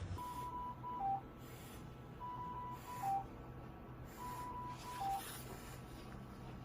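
An electronic alert chime repeating three times, about every two seconds: a longer high beep, a short beep, then a lower note. Soft breathy noises sound faintly underneath.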